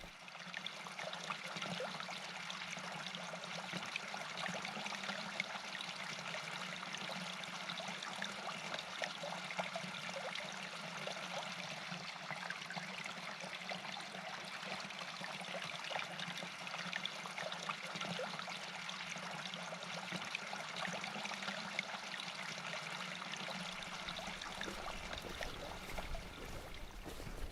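A stream flowing steadily, a continuous trickling wash of running water.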